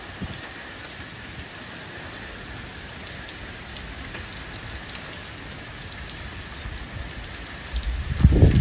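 Hail and rain pelting down in a storm: a steady hiss of rain with scattered faint ticks of hailstones striking. A loud low rumble about eight seconds in.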